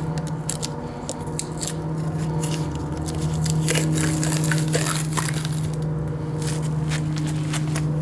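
Scattered clicks and light clatter of engine parts being handled, over a steady low hum that holds a few fixed pitches.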